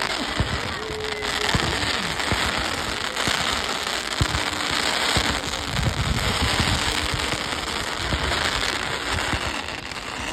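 Fireworks crackling and popping in a dense, continuous barrage of many small sharp cracks.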